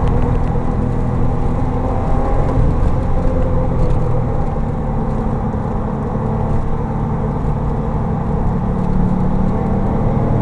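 Porsche 911 Turbo heard from inside its cabin while lapping a racetrack at speed: a steady engine drone under tyre and wind noise, the engine note rising a little near the end.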